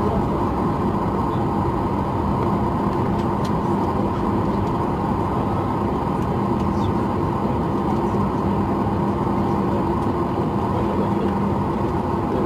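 Steady cabin drone of a Boeing 737 MAX 8 taxiing after landing: its CFM LEAP-1B engines at low thrust under an even hum with a few held tones, and a few faint clicks.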